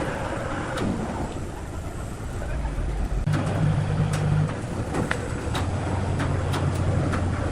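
A heavy engine running steadily, its low hum shifting in pitch about three seconds in and again near six seconds, with scattered knocks.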